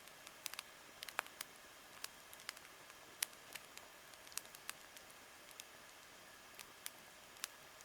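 Wood campfire crackling: irregular sharp pops and snaps over a faint steady hiss, one pop about a second in trailing off in a brief falling whistle.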